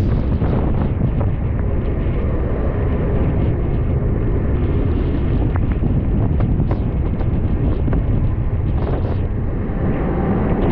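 Mumbai suburban electric local train running along the track, heard from beside the coach: a steady low rumble with wind buffeting the microphone and a few faint ticks.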